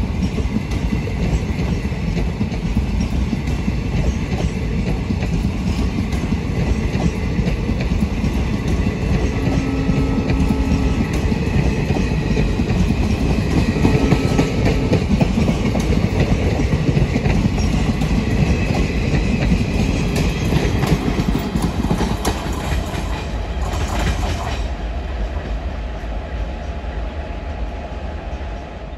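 Passenger train passing close by at speed, its wheels clattering over the rail joints in a steady dense rumble; the noise eases off somewhat near the end.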